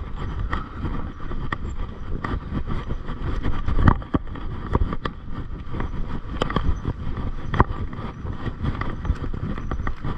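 Mountain bike being ridden over a rough dirt trail: a steady rumble from the tyres and bike, with frequent rattles and knocks over bumps, the loudest knock about four seconds in.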